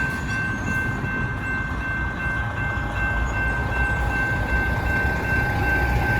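Northbound CSX mixed freight train approaching the grade crossing: a steady low rumble from the train, with a steady high ringing tone running over it.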